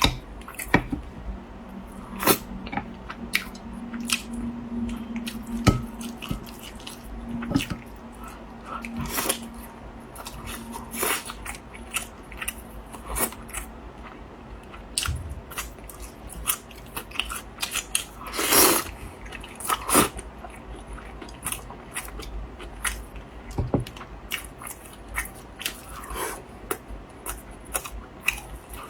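Close-miked chewing and biting of pork knuckle meat: irregular wet smacks and clicks of mouth and teeth working the lean meat, with a louder burst of smacks about two-thirds of the way through.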